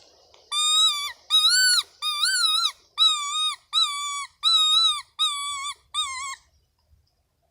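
A loud, high-pitched call repeated eight times in an even series, each note about half a second long with a slight rise and fall, stopping about six and a half seconds in.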